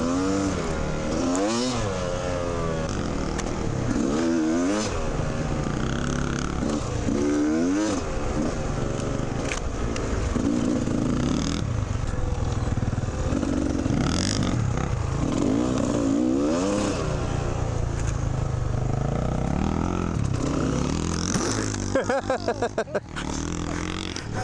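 Dirt bike engine revving up and down repeatedly as the bike is ridden through tight scrubby single track, with scattered knocks and scrapes of brush. A couple of seconds before the end the sound breaks into a rapid stutter.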